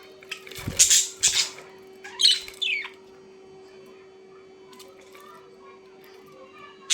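A bird squawking: two harsh squawks about a second in, then a call that drops in pitch, over a steady low hum.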